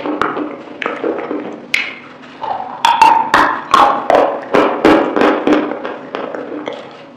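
Close-miked ASMR eating of chicken wings: wet chewing and lip-smacking, a quick run of sharp sticky mouth clicks, several a second and loudest around the middle.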